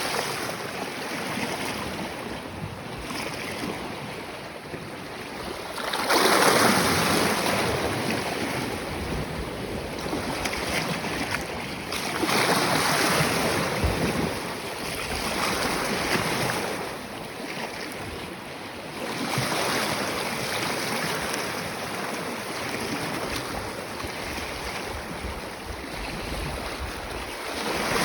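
Sea waves with whitecaps splashing against a flat natural rock slab, a steady wash that swells into a louder surge every several seconds, the biggest about six seconds in.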